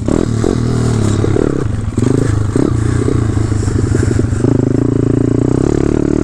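Gas pit bike's 190 cc single-cylinder engine running under the rider's throttle, its pitch shifting, with a stretch of rapid on-off throttle chopping mid-way before it settles into a steadier pull.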